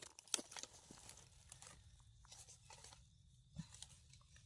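Faint, scattered crackling and rustling of dry forest litter being disturbed, a few sharper snaps among the quiet.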